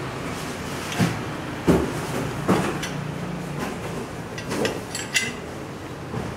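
Five knocks and clunks from objects being handled, over a steady low hum.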